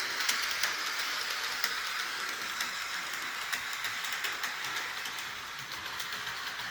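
HO-scale model train running on its track: a steady light whir from the locomotive and wheels, with scattered small clicks.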